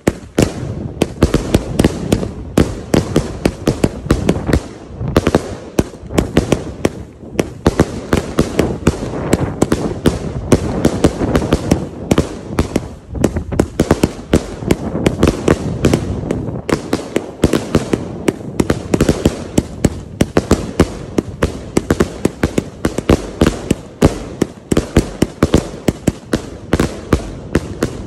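A consumer firework cake (battery) firing a rapid, unbroken run of shots and bangs, several a second, for nearly half a minute. The barrage stops right at the end.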